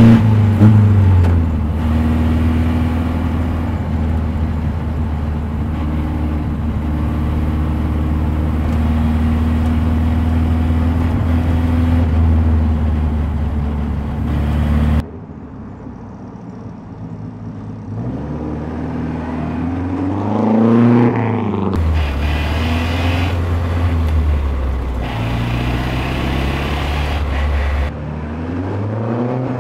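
Vintage Riley racing car's engine running at a steady cruising speed, heard on board. About halfway through, after a cut, the car is heard from the roadside as it accelerates and passes, its engine note rising and then falling. Near the end a new pass begins with the pitch rising again.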